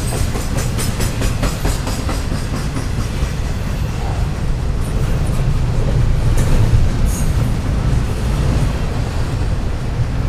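Intermodal freight train of container and trailer cars rolling past: a steady low rumble, with wheels clicking rapidly over rail joints in the first couple of seconds.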